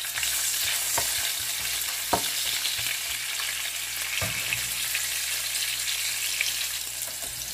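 Ginger strips sizzling and frying in hot oil in a nonstick pan, a steady hiss, stirred with a wooden spatula that gives a few light knocks against the pan.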